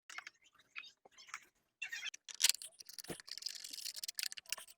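Light clicks, taps and rustling of hand work, fitting a new air filter on a mower engine, with crinkly rustles about two seconds in and again near the end.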